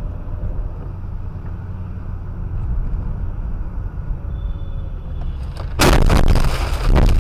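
Steady low rumble of a car's engine and road noise inside the cabin. A little before six seconds in, a sudden loud crash-like noise lasts about a second, and a second loud burst comes near the end.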